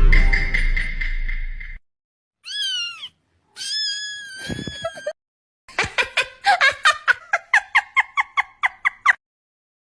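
A cat meowing: first a steady toned sound with a low rumble for about two seconds, then two separate meows, one falling in pitch and one held. These are followed by a fast run of short repeated calls, about six a second, lasting some three seconds.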